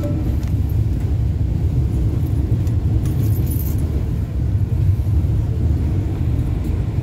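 Steady low rumble of an electric commuter train running, heard from inside the carriage: wheels on the rails and the car's running noise. A brief high hiss comes about three seconds in.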